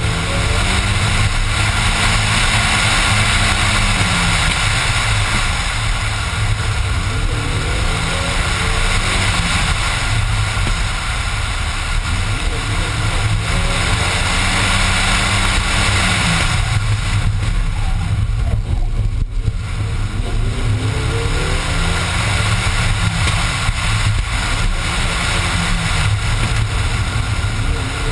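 Rally car engine heard onboard at speed, loud, its pitch climbing through the revs and dropping back again several times as it accelerates and lifts between corners, under a constant rush of wind and road noise.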